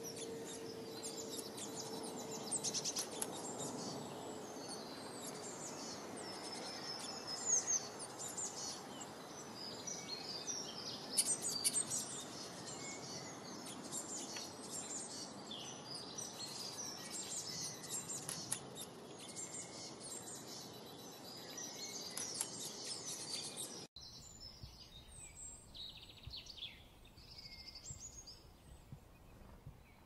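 Several songbirds chirping and singing over steady outdoor background noise. About 24 s in the sound cuts abruptly to a quieter passage with fewer, sparser calls.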